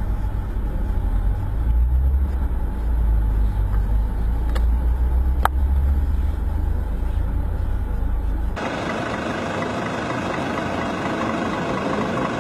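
Low, steady rumble of a car idling in traffic, heard from inside the cabin on a dashcam, with two sharp clicks about four and a half and five and a half seconds in. About eight and a half seconds in it cuts abruptly to louder, hissy outdoor street traffic noise.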